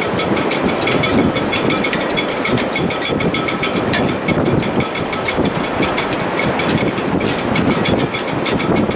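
A sailboat's standing rigging in a strong wind: a steady loud rush of wind with a fast run of small rattling ticks throughout.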